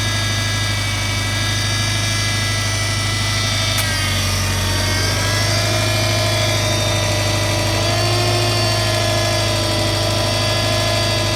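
Car engine idling with the power steering pump whining: several steady tones sit above the engine hum and shift in pitch about four seconds in. A single click comes just before the shift. The whine is a cavitation noise in cold, foaming power steering fluid, which the owner says dies away once the fluid warms up.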